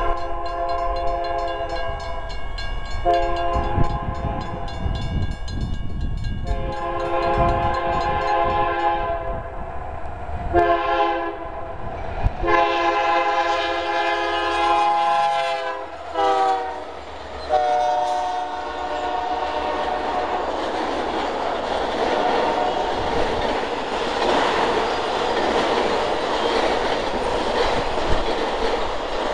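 Union Pacific freight train's lead locomotive air horn blowing a grade-crossing warning: several long blasts, one short blast, then a final long blast whose pitch drops as the locomotives pass. The autorack cars then roll by with steady wheel and rail noise and clickety-clack.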